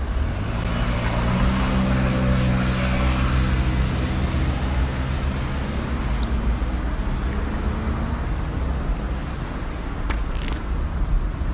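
A motor vehicle passes on the road, its engine hum building about half a second in and fading away over several seconds, over a steady low traffic rumble.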